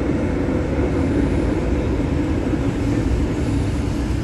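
Electric Tyne and Wear Metrocar running into the platform alongside: steady rumble of wheels on rail under a constant hum.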